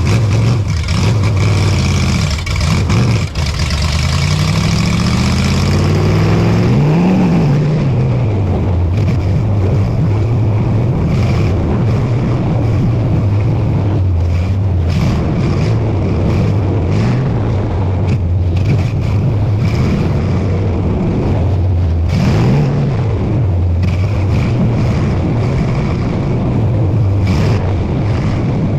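Dirt modified race car engine running hard at speed. Its pitch climbs a few seconds in as it accelerates, then holds with small rises and falls as it goes around the track.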